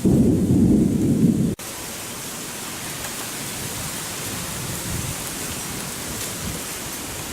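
Thunderstorm with heavy rain: a loud low rumble for about a second and a half cuts off abruptly, followed by a steady hiss of pouring rain.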